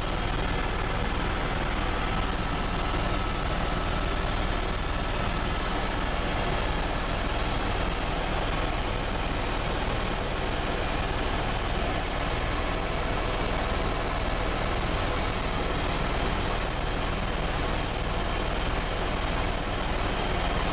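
Helicopter running steadily: a continuous, even engine and rotor noise with a faint steady whine.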